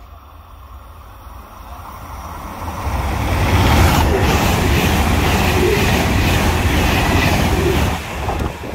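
Frecciarossa high-speed electric train passing close by at speed: a rumble and rushing hiss that builds over the first three seconds, holds loud, then drops off sharply about eight seconds in.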